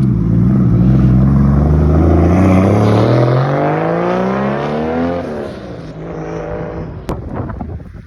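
A car accelerating hard as it leaves, its engine note climbing steadily for about five seconds, then falling away and fading.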